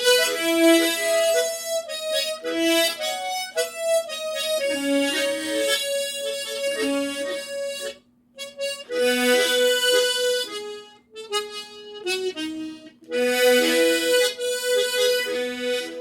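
Harmonica playing a slow melody in chords, with a separate line of short low notes under it in the slow go-go rhythm. The playing breaks off briefly about halfway and picks up again.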